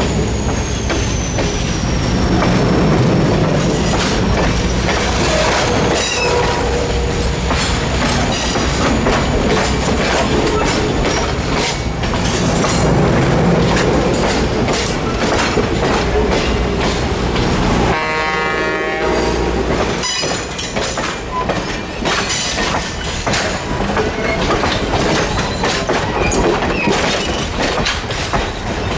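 Passenger coaches rolling past at close range: a steady rumble with wheels clicking over rail joints, and a high wheel squeal that falls slightly in pitch in the first second or two.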